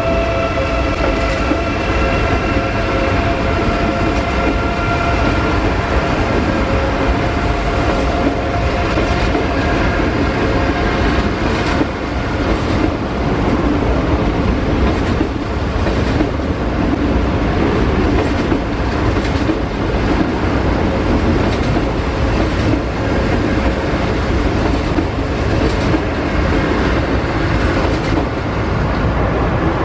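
DB ICE 3 (Class 407) electric high-speed train running slowly past. At first a steady pitched whine from its traction equipment rides over the rumble and fades over the first ten seconds or so. After that the wheels keep up a steady rumble with scattered clicks over rail joints and points.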